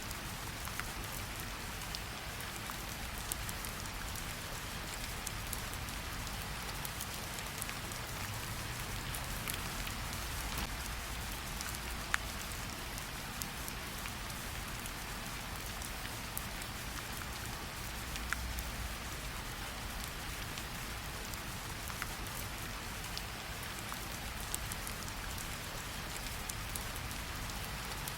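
Steady gentle rain pattering on tree leaves, with scattered individual drops ticking sharply now and then as water drips off the foliage.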